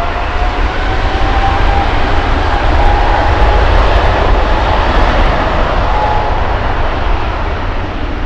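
Boeing 777 jet engines at takeoff power: a loud, deep rumble under a whine that rises slowly in pitch, growing louder to a peak about three to four seconds in, then slowly easing.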